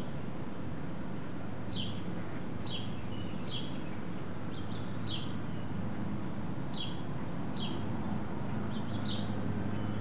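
A bird calling a short, high, downward-sweeping chirp over and over, roughly once a second, over a steady low hum.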